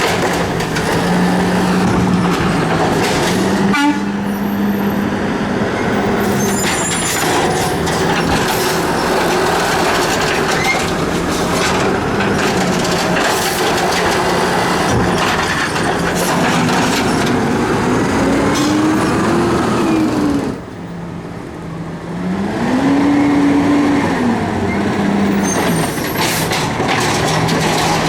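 Garbage truck engine running steadily with scattered clanks. Twice in the second half its pitch rises and falls back, the engine speeding up as it does to drive the hydraulic compactor.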